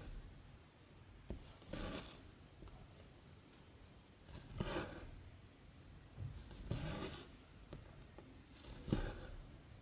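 Cotton embroidery thread drawn through 14-count cross-stitch fabric by hand, four short scratchy pulls about two seconds apart, each lasting under half a second.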